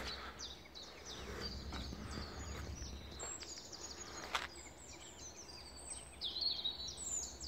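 Quiet outdoor background of small birds chirping and singing in quick, high, repeated notes over a faint low rumble, with one sharp click about four seconds in.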